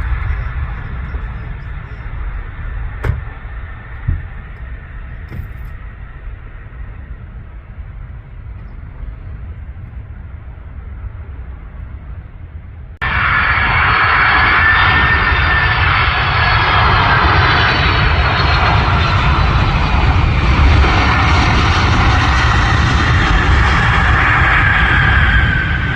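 Landing jet airliner engines: a low rumble with a faint whine fades away. About halfway through, the sound cuts abruptly to a much louder, closer jet, its engine whine bending slightly in pitch over a steady rumble.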